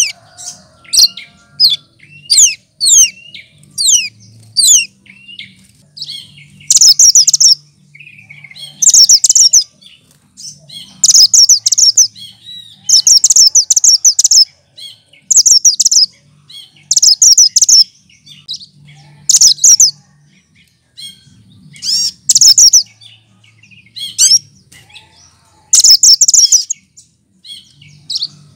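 Cucak kinoy leafbird singing: a run of quick falling whistled notes, two or three a second, then from about seven seconds in, loud rapid chattering phrases about a second long, repeated every second or two. This species is known for mimicking other birds' songs.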